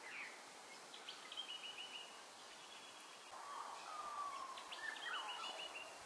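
Birds calling outdoors: a quick run of short repeated notes, heard twice, with a drawn-out whistle sliding down in pitch between them, over faint steady background noise.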